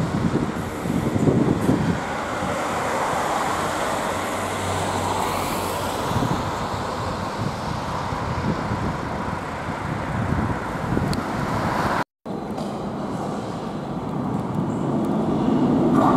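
Steady vehicle running noise, cut off abruptly about twelve seconds in. After the cut a train approaches, growing louder near the end.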